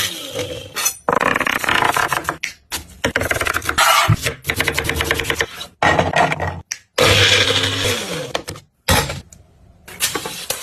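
Cooking sounds in short edited clips: a spoon scraping and stirring in a cooking pot under a steady frying hiss, cut off abruptly several times.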